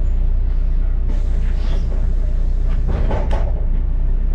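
Double-decker bus running, heard from inside as a steady low rumble, with a short clatter about three seconds in.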